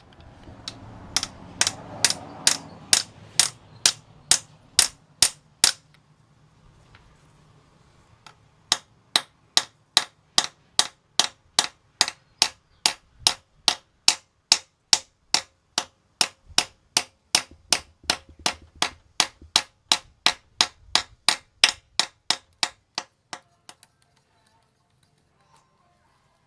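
A long run of sharp, evenly spaced metallic clicks or taps, nearly three a second. They stop for about three seconds and then resume for another fifteen. A low hum sits under the first run.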